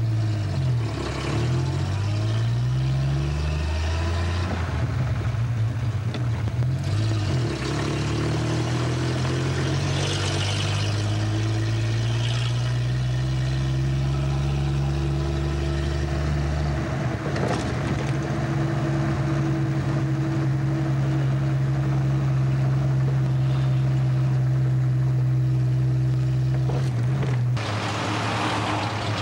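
1936 Rolls-Royce 25/30's straight-six engine and road noise heard aboard the moving car, the engine note rising several times in the first few seconds as it accelerates, then running fairly steadily. The driving sound cuts off abruptly near the end.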